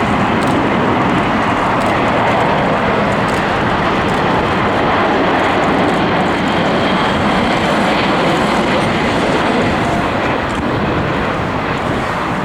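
Airliner engines heard close by, a loud, steady rushing noise with faint whining tones in it, easing slightly near the end.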